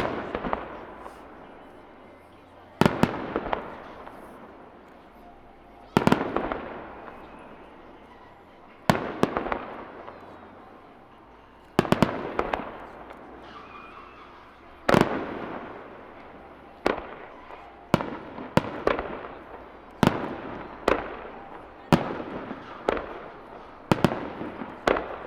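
Aerial firework shells bursting, each a sharp bang that trails off in a long rumbling echo. They come about three seconds apart at first, then faster, roughly one a second, over the last third.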